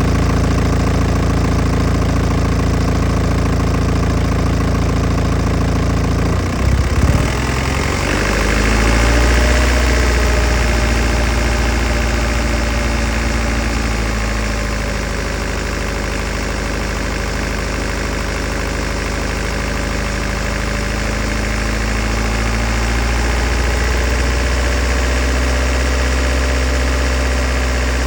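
BMW N47 four-cylinder turbodiesel running cold at idle, with a brief unsteady stumble about six seconds in, then engine speed rising and settling a few seconds later and lifting gently again near the end. The owner is listening for the timing chain rattle this engine is known for.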